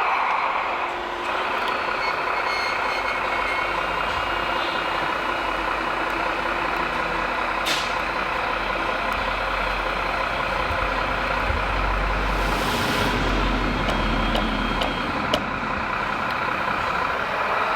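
Radio-controlled construction machines running: a steady whine from their electric motors and hydraulic pumps with sound-module engine noise, a short hiss of air about two-thirds of the way through, and a couple of sharp clicks.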